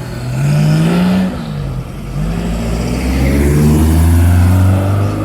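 A car accelerating hard away from the meet, its engine pitch rising, dropping at a gear change about a second in, then climbing again and getting louder toward the end.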